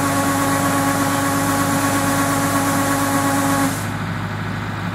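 Yanmar YH700 rice combine harvester running steadily, a machine hum with a steady whine and hiss. The whine and hiss cut off suddenly near the end, leaving a lower engine hum.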